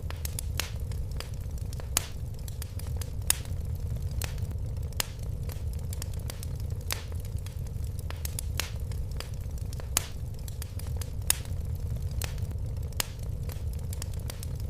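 Fire in a fireplace crackling, with irregular sharp pops over a steady low rumble; a handful of pops stand out louder.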